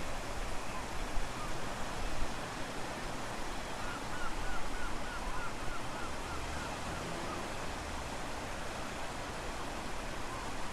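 Strong wind gusting against the microphone over a steady wash of surf. Around the middle, a quick run of about ten faint chirps.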